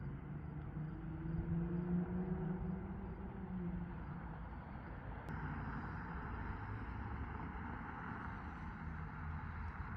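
Infiniti Q50's 3.7-litre VQ V6 with a Remark axleback exhaust, heard while driving: a steady engine drone for the first few seconds that fades about four seconds in, leaving road and wind noise.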